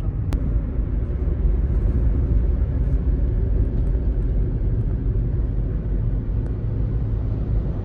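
Steady low rumble of a moving vehicle, with a single sharp click about a third of a second in.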